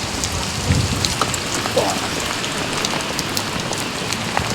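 Heavy rain falling steadily, with many sharp drop ticks close by.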